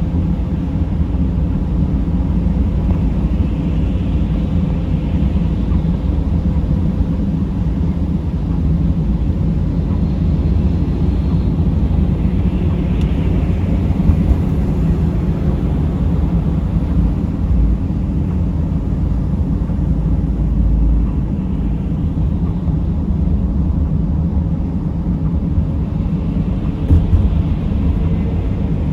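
Steady low rumble of a vehicle being driven, engine and tyre noise without much change, with one short knock near the end.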